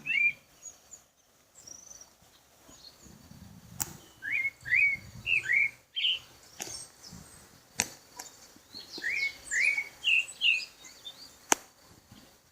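A songbird singing short phrases of three to five quick, bouncing whistled notes, a phrase every four to five seconds, with fainter higher chirps from other birds. Three sharp clicks sound between the phrases.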